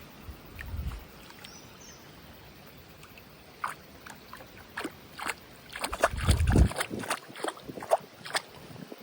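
Irregular splashes and sloshes of shallow river water, coming thicker from about halfway through, over the steady sound of the flowing river. A low rumble, like wind on the microphone, comes near the start and again about six seconds in.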